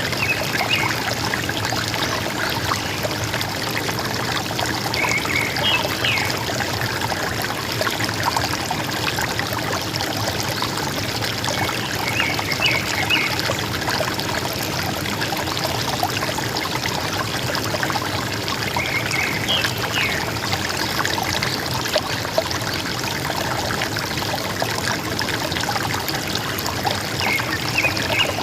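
River water running steadily, with a short bird call of a few quick chirps repeating about every seven seconds.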